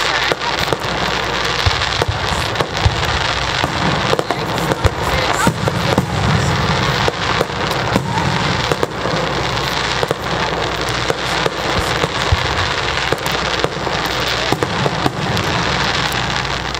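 Aerial fireworks shells bursting in quick succession, a dense, continuous run of bangs and crackling with no break.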